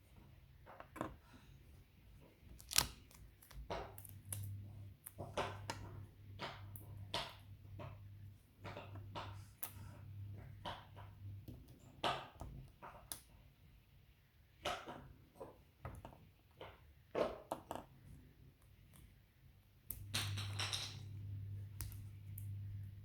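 Wooden craft sticks and clothespins clicking and knocking as they are handled and fitted together, in irregular sharp taps. A low hum comes in about four seconds in, stops around twelve seconds, and returns near the end.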